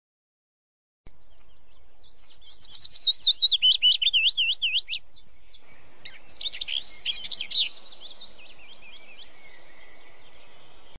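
A songbird singing: a quick run of rising and falling whistled notes starting about two seconds in, then a second burst, trailing off into softer chirps near the end.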